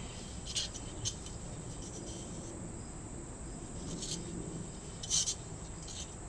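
Faint rubbing and scraping of lithium grease being worked by hand into the inner channel of a VW Beetle sunroof track, with a few brief higher scrapes. A steady high chirping of crickets runs behind it.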